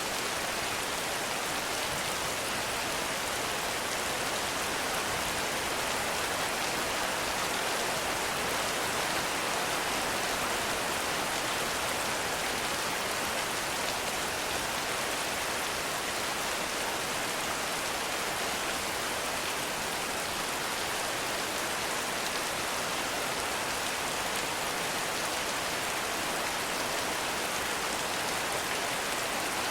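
Heavy rain falling steadily: an even, unbroken hiss of many drops, with no thunder.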